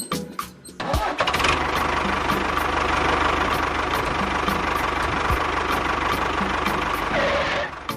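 A small motor or engine runs steadily with a fast, even pulse, starting about a second in and cutting off just before the end.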